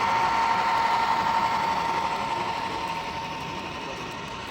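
Model train running past on a layout: a steady whine from its small electric motor over the rattle of wheels on track, fading away over the last couple of seconds.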